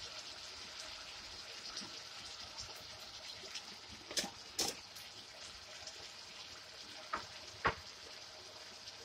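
Sliced onions and vegetables sizzling steadily in a wok, with a few short sharp clicks: two around the middle and two more near the end.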